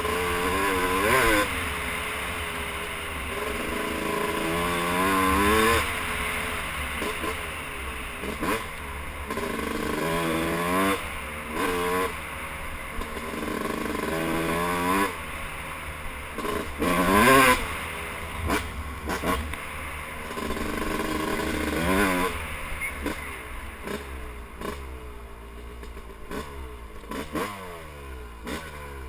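Yamaha YZ250 two-stroke dirt bike engine being ridden, revving up in short throttle bursts and falling back between them, about six times. It is a freshly rebuilt engine just out of break-in, ridden easy on the throttle.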